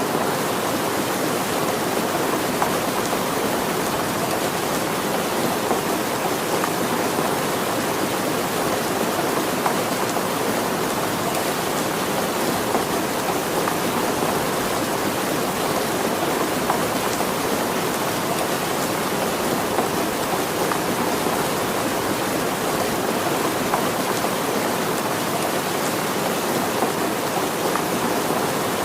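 Flash-flood torrent: fast-moving floodwater rushing steadily and unbroken.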